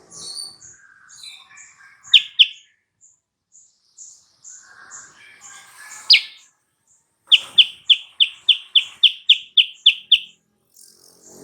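Silver-eared mesia (kutilang sutra) singing: a soft, very high note repeats steadily over quieter warbling. It is broken by a few loud, sharp falling notes and then a fast run of about a dozen loud, sharp notes at roughly four a second.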